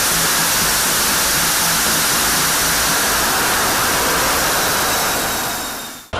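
F-16 fighter's jet engine running at full power: a loud, steady, high-intensity roar of rushing noise that fades away quickly near the end.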